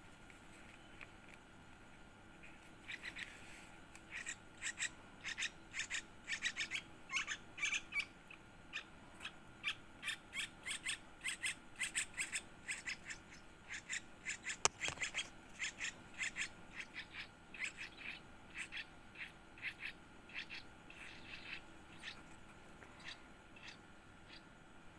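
Yellow-vented bulbul chick giving rapid, short, high-pitched chirps, several a second, starting a few seconds in and thinning out near the end: the begging calls of a nestling being fed. A single sharp click about midway.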